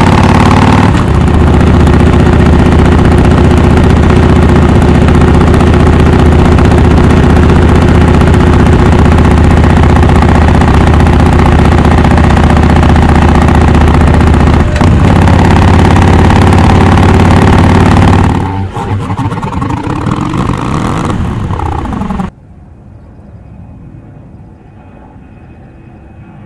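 Harley-Davidson XL1200X Forty-Eight's V-twin running loud at steady revs through a Rinehart Racing 3-inch slip-on exhaust with the Super Quiet baffle. A little past two-thirds through, the engine note drops and falls in pitch, then cuts off suddenly to a faint background.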